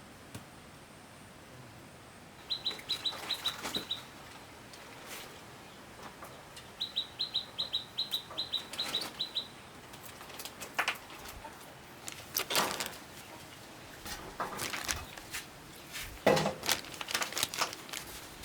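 A small bird chirping in two quick runs of short, high, same-pitched notes, about six a second. Near the end come a few louder rustles and knocks of handling.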